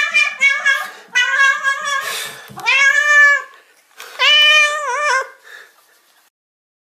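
Domestic cat meowing: a quick run of short meows, then two long drawn-out meows, the last wavering in pitch, stopping about six seconds in.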